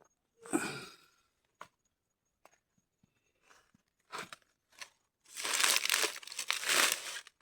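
Crinkling and rustling handling noise: a few short rustles, then a denser run of crinkling from about five seconds in.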